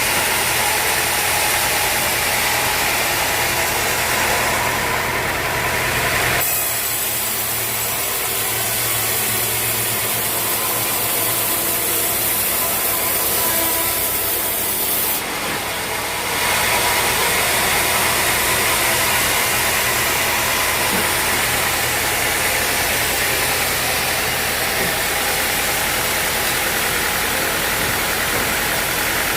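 Sawmill machinery running with a steady engine-like drone and hiss. The sound changes abruptly about six seconds in and again around sixteen seconds.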